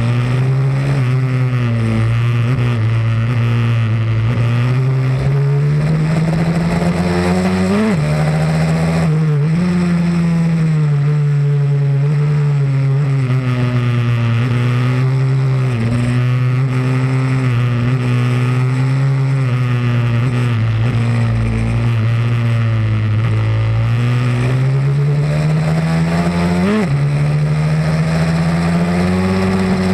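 Pit bike engine running hard on a track, its revs climbing and falling slowly as the throttle opens and closes, with sudden sharp dips in pitch about eight seconds in and again near the end.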